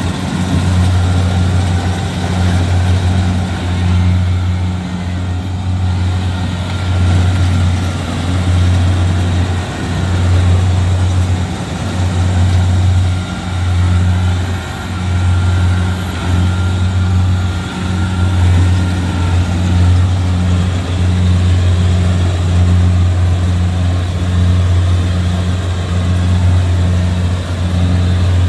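Kubota DC-70G Plus combine harvester's diesel engine running steadily while harvesting rice: a deep, steady drone that swells and eases every second or two.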